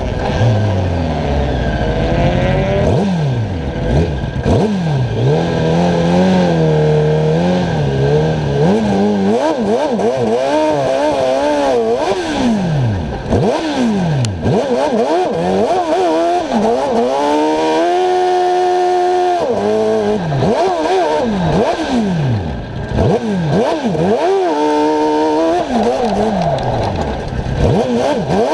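Car engine heard from on board, revving hard and dropping again and again as it accelerates, lifts and shifts through a tight course. About eighteen seconds in it holds one steady high pitch for a second and a half before falling away.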